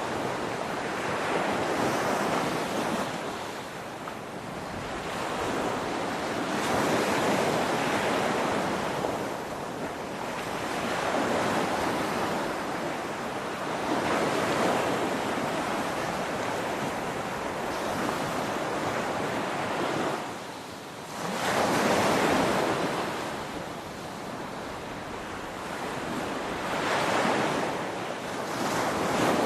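Ocean waves breaking on a shore: a continuous rush of surf that swells and eases every few seconds. After a brief lull about two-thirds of the way through, the loudest wave crashes in.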